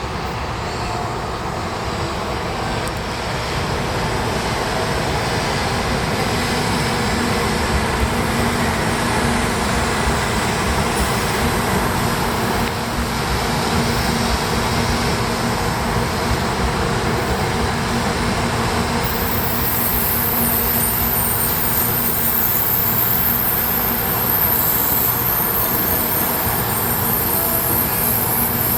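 Shinkansen Doctor Yellow (923 series inspection train) running past at the station platform: a loud, steady rush of wheel and running noise that grows slightly louder, with a high-pitched whine joining about two-thirds of the way through.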